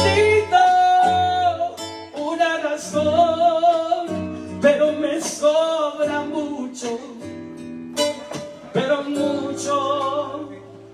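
Live music with acoustic guitars playing a melodic lead line over sustained chords, in an instrumental break between sung verses. It fades toward the end.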